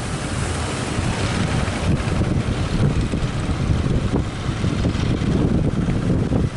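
Strong wind buffeting the microphone aboard a fishing boat under way, a loud, continuous gusty rumble with the boat's noise beneath it.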